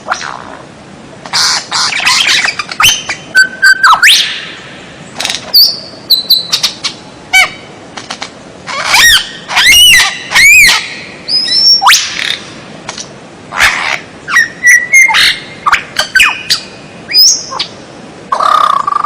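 A songbird singing loud, varied phrases of sharp chirps, whistled notes and quick pitch sweeps, broken by short pauses. About nine seconds in comes a run of fast rising-and-falling notes.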